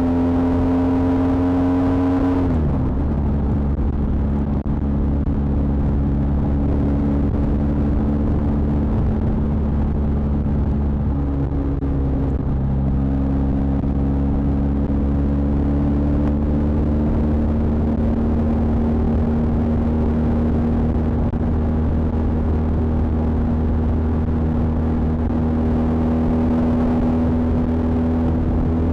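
BMW R 1250 GS Adventure's boxer-twin engine under way on the road. Its note drops sharply about two and a half seconds in, holds steady, then climbs slowly through the second half, over a constant low rumble.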